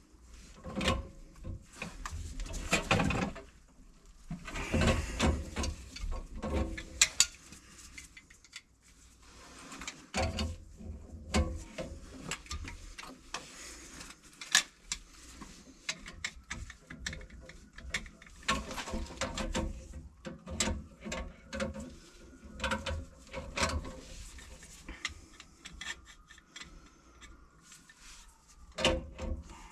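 Scattered knocks, clicks and rattles of hand work with tools and fittings, irregular throughout.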